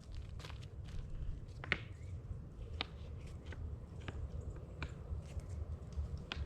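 Rocks being handled and set in place on the fire: a few scattered light knocks and clicks over a low steady rumble.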